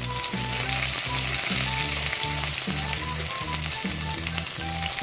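Sliced onions and curry leaves sizzling in hot oil in a wok, over background music with a steady low beat.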